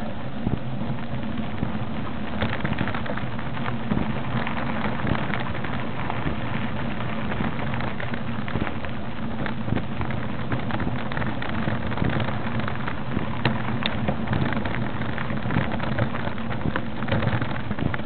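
A steady low engine drone under a dense, even crackling patter of many small clicks, with no single loud event.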